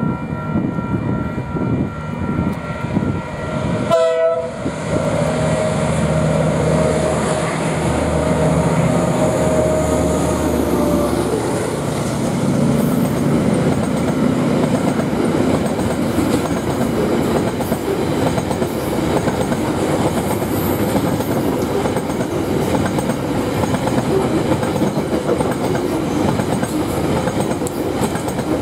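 A train passing close by. About four seconds in a horn sounds for several seconds over the locomotive's low engine note, then the passing wagons rumble and clatter steadily over the rails.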